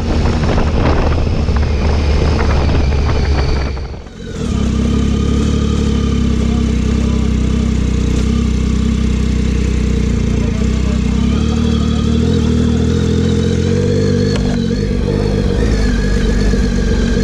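Triumph Tiger 800's three-cylinder engine running under way on a dirt track, heard close from the bike. It breaks briefly about four seconds in, and in the later part its pitch climbs and falls as the throttle is worked.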